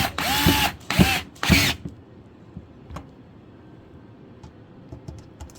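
Cordless power drill/driver run in three short bursts, each spinning up and down in pitch, followed by a few faint clicks.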